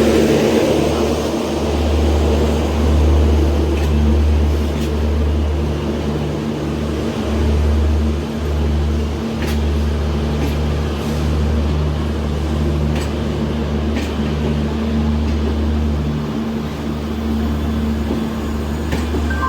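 WAP-4 electric locomotive running with a loud, steady low hum as it hauls a train out, with a few sharp clicks now and then.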